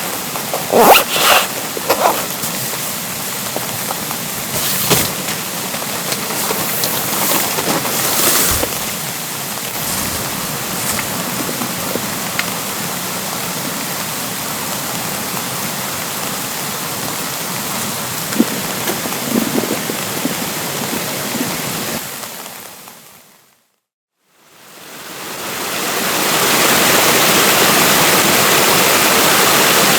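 Steady rain and a rushing stream, with a few sharp knocks in the first seconds. About two-thirds through the sound fades out completely, then fades back in to louder, steady rushing water.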